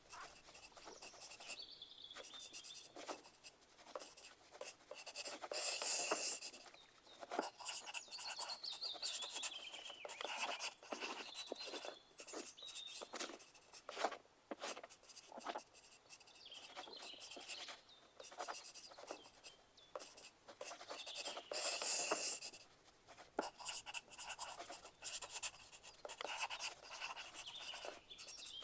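Pencils writing on paper: a steady run of short scratching strokes, with two louder, rougher spells about six seconds in and again around twenty-two seconds.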